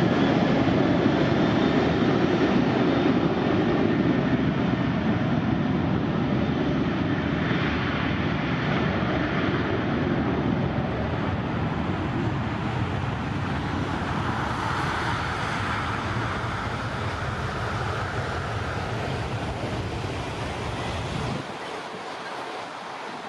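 Jet airliner engine noise, loud at first and slowly fading as the aircraft moves away. The deep rumble drops out suddenly near the end.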